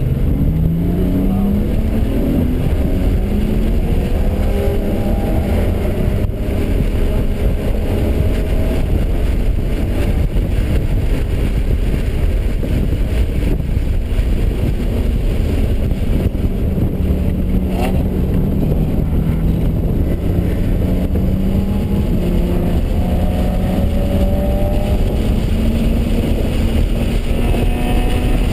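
BMW engine heard from inside the cabin under hard driving, its pitch climbing several times as it pulls through the revs. The pitch holds steady for a stretch midway, then climbs again near the end, over loud wind and road rumble.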